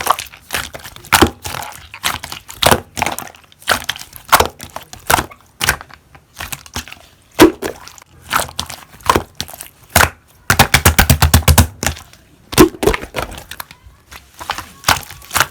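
Slime being pressed and played with by hand, giving sharp clicks and pops at irregular intervals of about half a second, with a quick run of rapid clicks a little after the middle.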